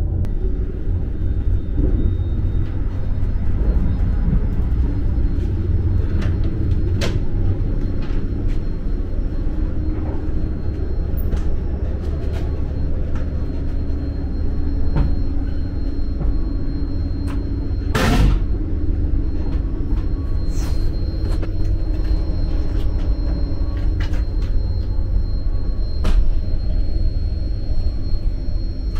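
Steady low rumble of an ICE 3 high-speed train running, with scattered light clicks and one brief, sharp burst of noise about eighteen seconds in.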